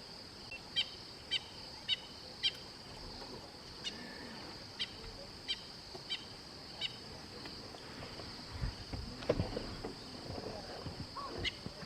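Bush ambience: a steady high insect drone with a short, sharp chirp repeating roughly every half-second to second. From about eight and a half seconds in, a louder, irregular low sound with a few honk-like calls joins it.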